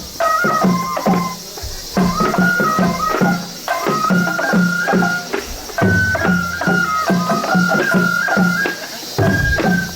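Japanese festival music for a lion dance: a high melody of held notes stepping up and down over a steady beat of low drum strikes, about three a second, with short breaks in the phrasing.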